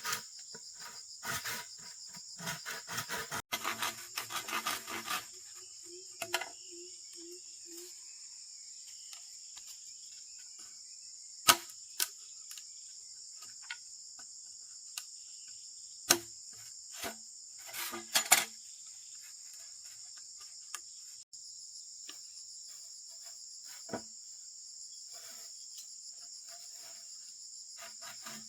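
Steady high-pitched insect chorus, with a few sharp knocks and clicks of handwork scattered over it; the loudest come singly near the middle and in a quick cluster a little later.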